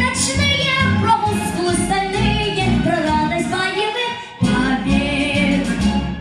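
Children singing a song over an instrumental backing track, with a brief break in the music about four seconds in.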